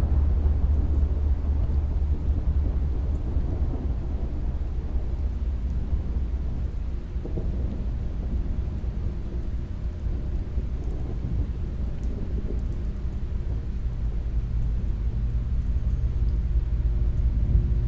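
Steady rain with a continuous low rumble of thunder. Faint held tones come in near the end.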